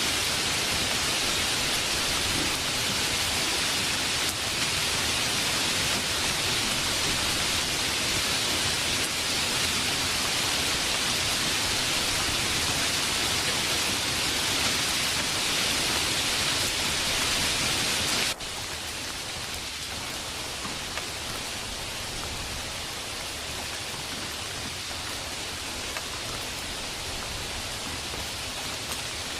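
Steady hiss of heavy rainfall from a rain sound effect. About two-thirds of the way through it cuts abruptly to a softer, quieter rain, as at an edit between recordings.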